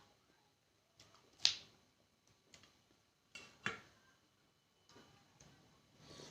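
Eating sounds close to the microphone: a few sharp, crisp clicks of bites and chewing on fruit, the loudest about a second and a half in and two more close together around three and a half seconds.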